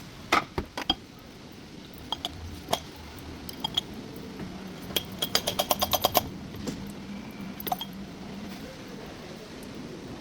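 Metal tools and parts clinking and knocking: scattered sharp clicks, with a quick run of about ten clicks around the middle.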